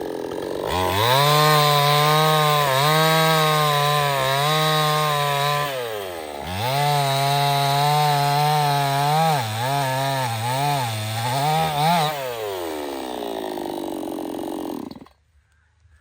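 Stihl 070 two-stroke chainsaw being run at high revs, easing off and revving up again about halfway, with the revs dipping and rising several times before falling back toward idle. The sound cuts off suddenly near the end.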